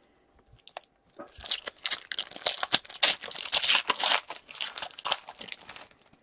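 Hockey card pack wrapper being torn open and crinkled by hand, a dense run of crinkling from about a second in after a single click.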